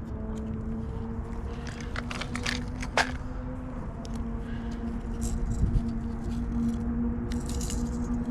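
Fishing tackle being handled while a smaller bait is taken out and swapped on: scattered clicks, rattles and scrapes, with a sharp click about three seconds in. Beneath it runs a steady low hum.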